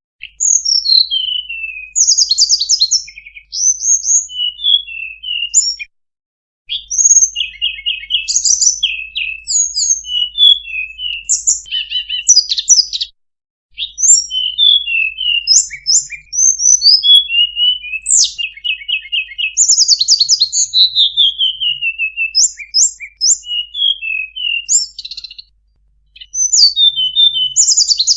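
Tledekan lure call: a tledekan singing a fast, varied run of high chirps, short trills and falling whistled slurs, with brief pauses about six, thirteen and twenty-five seconds in.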